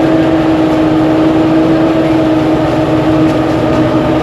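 Engine-driven rice threshing machine running steadily at a constant speed, a loud even hum with a steady pitch.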